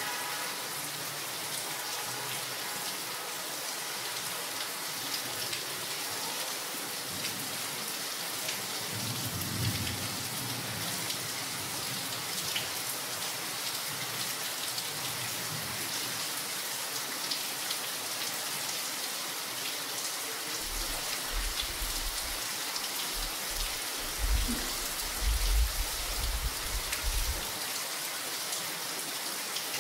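Steady rain, a dense hiss dotted with sharp ticks of individual drops. Low rumbles swell briefly about ten seconds in and again through the last third.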